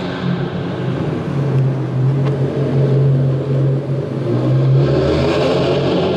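Infiniti Q50 Red Sport's twin-turbo 3.0-litre V6 running at low speed through aftermarket downpipes and an otherwise stock exhaust, echoing in a concrete parking garage. The engine note settles lower about a second and a half in and picks up again as it accelerates near the end.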